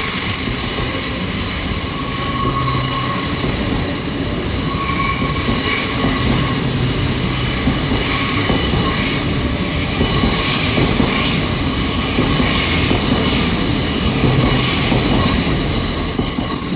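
Hitachi Intercity Express Train (IET) departing at low speed, its wheels squealing in several steady high-pitched tones over a continuous low rumble.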